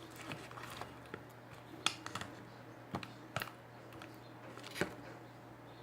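Spoon stirring sticky slime in a small plastic pot, with scattered light clicks and taps of the spoon against the container, a few sharper ones about two, three and five seconds in, over a steady low hum.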